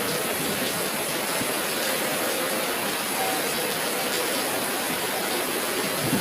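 Steady rushing hiss with no breaks.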